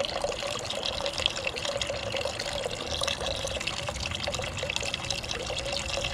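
Water pouring from a thermos through the pour slots cut in its cap, a steady unbroken stream like a small tap running.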